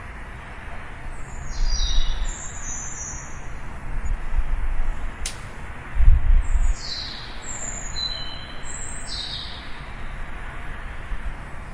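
A songbird singing two short phrases of high, falling notes, the first about a second in and the second around seven seconds in. Underneath runs a steady low rumble with a couple of deeper swells, and there is a single sharp click near the middle.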